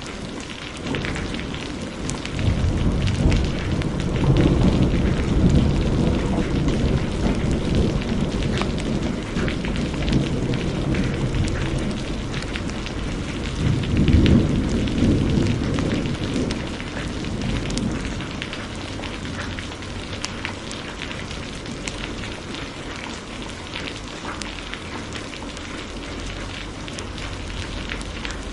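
Heavy rain falls steadily, with a long rolling thunder rumble that swells twice through the first two-thirds and then fades, leaving the rain. Scattered sharp crackles of a fireplace run through it.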